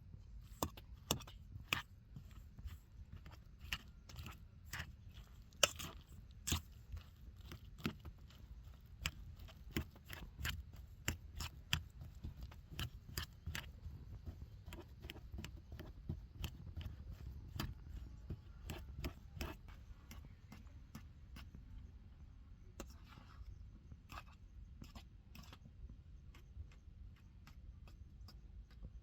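A person eating, chewing with many irregular sharp clicks and crunches, thickest in the first two-thirds and thinning out near the end.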